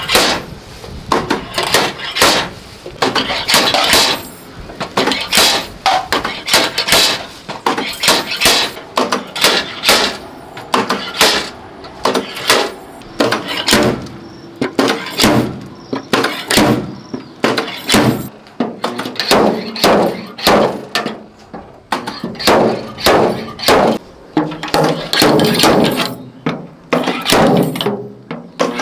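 Irregular series of sharp knocks and clatters, several a second, with brief pauses between runs.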